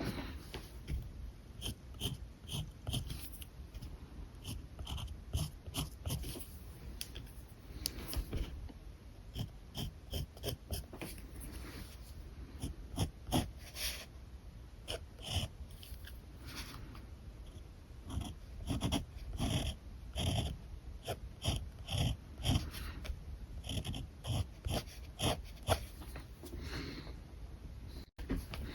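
Alcohol marker tips rubbing and squeaking across paper in many short, quick colouring strokes, several a second.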